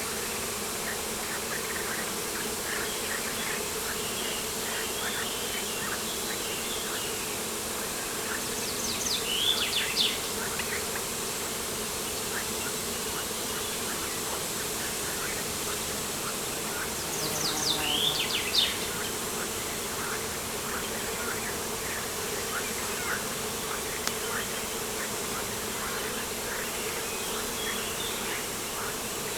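Outdoor ambience of a steady insect buzz with many short bird chirps throughout, and two louder bird calls, about nine seconds in and again around seventeen to eighteen seconds.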